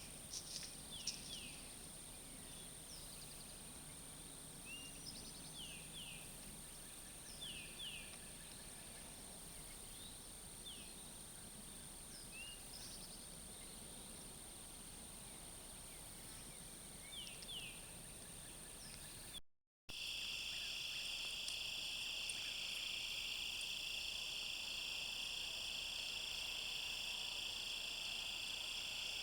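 Outdoor field ambience dominated by insects: a steady high-pitched insect drone with scattered short, falling chirps. After a sudden cut, a louder, dense insect chorus of several high, steady trilling bands takes over.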